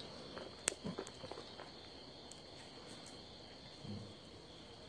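Faint steady chirring of insects, with a few small clicks and light knocks in the first second or so and a soft low thump near the end.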